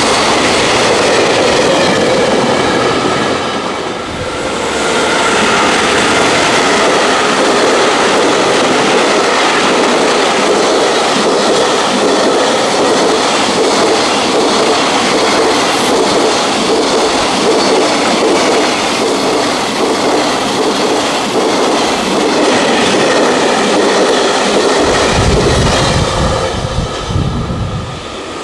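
Freight train running past close by, its wagons rolling over the rails with a steady loud clatter, a deeper low rumble joining in near the end.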